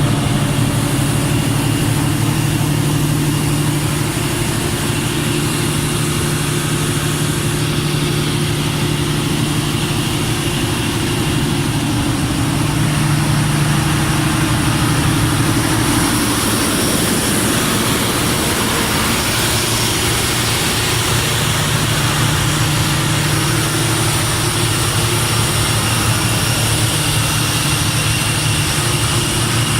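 Mitsubishi 600 kW diesel generator set running steadily, a continuous engine drone.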